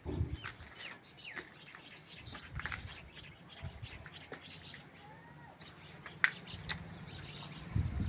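Birds chirping, with short scattered calls and little whistled glides, over a few light knocks and low thumps.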